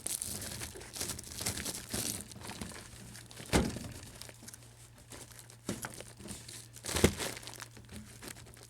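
Flexible HVAC duct crinkling and rustling as it is handled and pushed into place, with two louder bumps about three and a half and seven seconds in.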